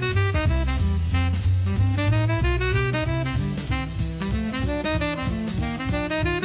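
Jazz music: a saxophone plays a running melody over bass and drum kit.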